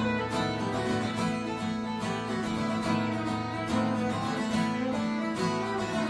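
Acoustic guitar strummed in a steady rhythm: an instrumental passage of a folk-country song between sung lines.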